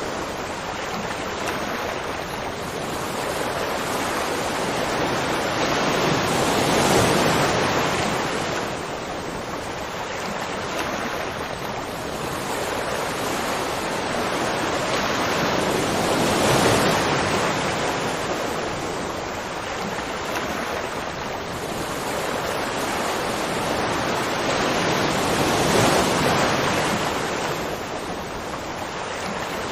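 Continuous rushing water noise that swells louder and fades back roughly every nine to ten seconds.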